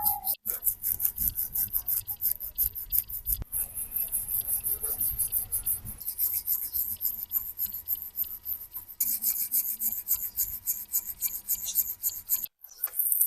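Fast back-and-forth scraping strokes of hand abrasion on an old rusty hammer, several strokes a second, changing in tone abruptly every few seconds.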